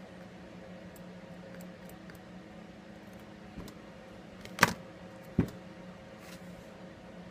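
Small hand tools clicking and ticking during close work on a smartphone, with two sharp clicks a little under a second apart near the middle, over a steady low hum.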